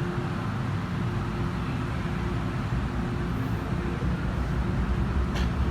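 MTR M-Train heard from inside the car while running on the track: a steady low rumble with a faint tone that comes and goes, and a single sharp click about five seconds in.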